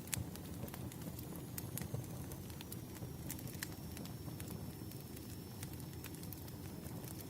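Burning firewood: a low steady rumble of the fire with frequent irregular sharp crackles and pops of the logs. A faint thin high whine runs underneath from about two seconds in.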